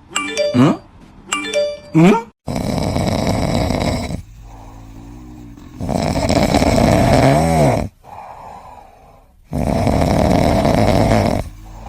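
A pet snoring loudly: three long, rasping snores about three and a half seconds apart, with quieter breaths between them. The snoring is preceded by a couple of quick chiming sound-effect notes.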